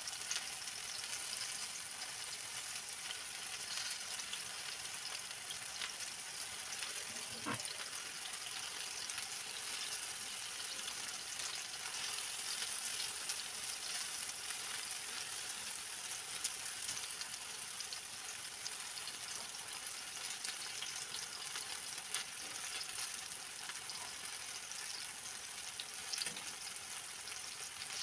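Plantain slices shallow-frying in oil in a nonstick pan: a steady sizzle, with a few sharp clicks of a metal fork against the pan as the slices are turned.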